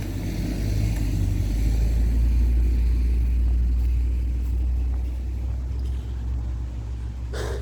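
A car passing along the road: engine and tyre rumble swelling to its loudest about two seconds in, then slowly fading away.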